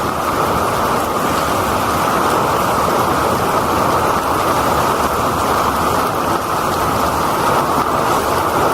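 Heavy typhoon rain and rushing runoff water making a loud, steady rush that does not let up.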